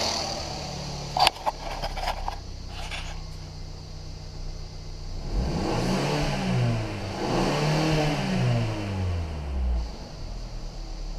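2014 Mercedes CLA's 2.0-litre turbocharged four-cylinder engine idling, then revved twice, each rev rising and falling back to idle. A few sharp clicks sound about a second in.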